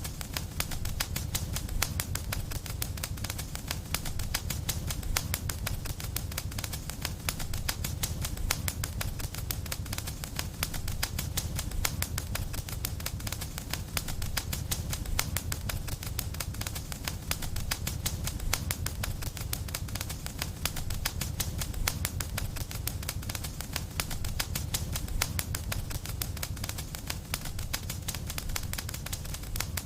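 Wood fire crackling in a fireplace: a dense, steady stream of small pops and snaps over a low rumble.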